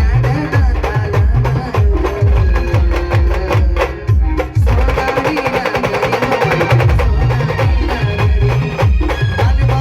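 Band-party music played live: heavy bass-drum beats about twice a second under a melody line, with a brighter, busier passage about halfway through.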